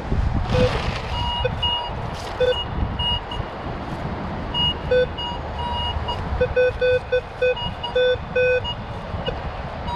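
Minelab Vanquish 440 metal detector giving short beeps in a low tone and a higher tone as the coil sweeps over a strong target, coming in quick runs, especially in the second half. Wind buffets the microphone underneath.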